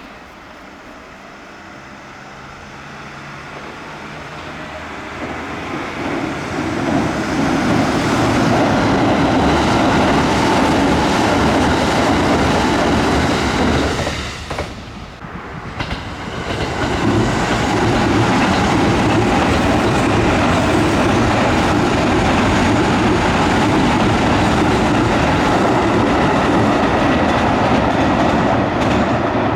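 A Kintetsu electric train approaching and running past, its wheel and running noise growing from faint to loud over the first several seconds with a rhythmic clickety-clack over the rail joints. There is a brief dip in loudness about halfway, then the noise stays loud to the end.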